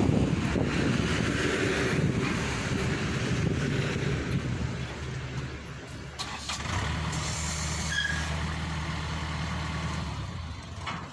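Diesel engine running steadily. It fades about six seconds in, then runs steadily again from about seven seconds in.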